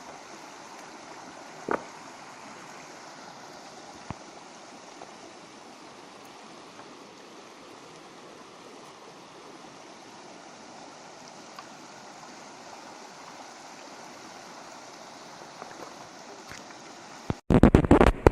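Fast-flowing river water rushing steadily. Near the end, after a split-second dropout, a loud crackling burst of noise.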